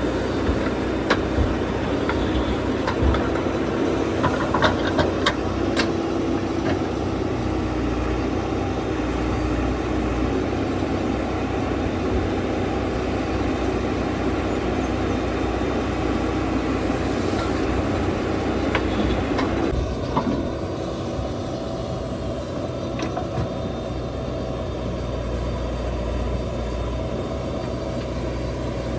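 JCB 3DX backhoe loader's diesel engine running steadily under load, with scattered knocks and clatter in the first few seconds. About twenty seconds in, a steady tone in the engine sound stops and the running settles a little quieter.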